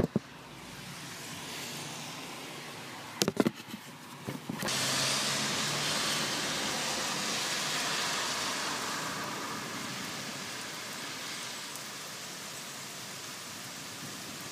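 A few sharp clicks, then heavy rain comes in suddenly about four and a half seconds in as a steady hiss of a torrential downpour, easing slightly toward the end.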